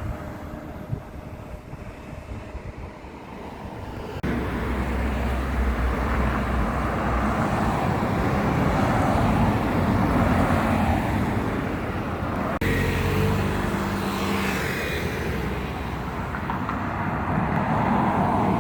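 Outdoor traffic ambience with a vehicle engine's low, steady hum. The sound shifts abruptly about four seconds in and again about twelve seconds in.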